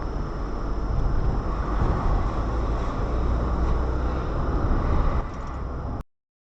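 Steady low rumble of a vehicle's engine and road noise, somewhat louder through the middle. It drops near the end and then cuts off suddenly to silence.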